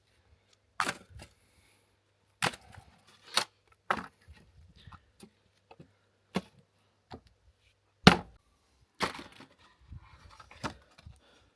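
Wood being chopped: about ten sharp, irregularly spaced cracks and knocks, the loudest about eight seconds in.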